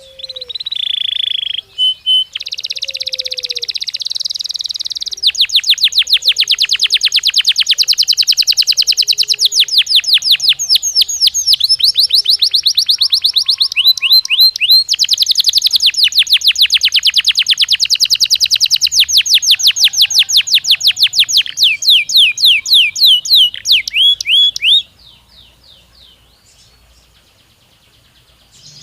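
Domestic canary singing one long song of rapid trilled rolls of repeated high notes; the trills slow toward the end and the song stops a few seconds before the end. It is the kind of song played to make a canary answer.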